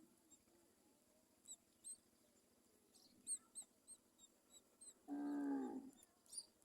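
Myna birds at the nest: a run of short high chirps, about three a second, starting about three seconds in, and one harsh, pitched call lasting about a second near the end, the loudest sound.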